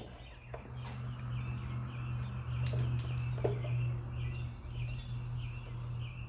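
Small birds chirping over a steady low hum, with a few light clicks about midway.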